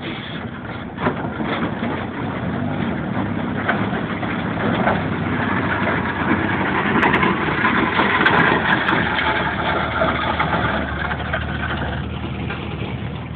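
A car engine running, growing louder toward the middle and then fading, like a vehicle driving past. A few short knocks are heard near the start.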